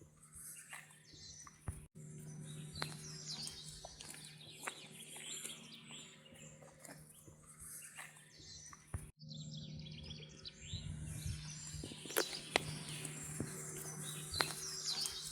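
Small birds chirping and singing, many short calls overlapping, over a steady low hum. The sound drops out for a moment twice, about two seconds in and about nine seconds in.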